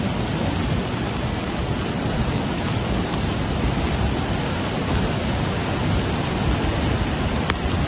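Floodwater of a river in spate rushing past, a steady, dense noise without a break.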